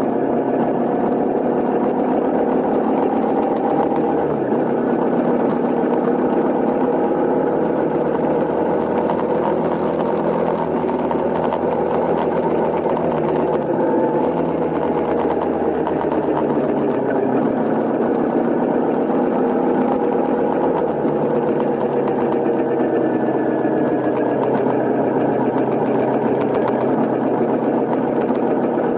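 Honda CRF250L's single-cylinder four-stroke engine running steadily, its pitch slowly rising and falling with engine speed.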